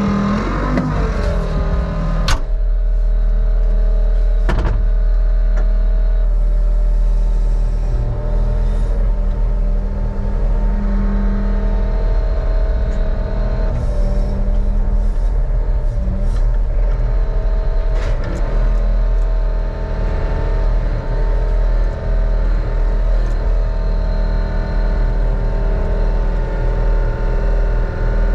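Heavy-equipment engine running steadily, its pitch dropping about a second in as it slows, with a few sharp clacks: one about two seconds in, another about five seconds in, and one past the middle.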